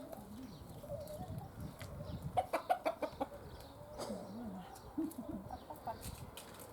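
Roosters and a hen clucking while they feed, with a quick run of short, sharp clucks about two and a half seconds in.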